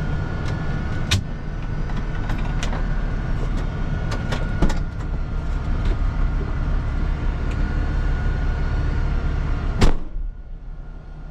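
Semi truck's engine idling as a steady low rumble, with a few clicks and knocks. Near the end comes a loud thump, after which the sound is much quieter.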